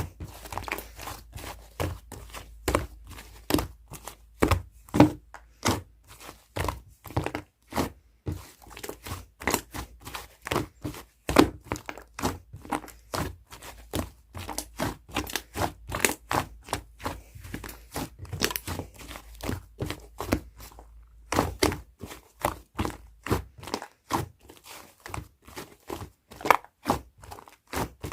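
Squishy clay-slime being pressed and folded by hand, giving off an irregular run of sharp clicks and pops as trapped air bursts, about two or three a second.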